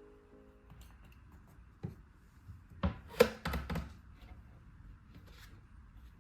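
A few sharp clicks and knocks from small objects being handled, bunched together about three seconds in, the loudest near the middle of that group.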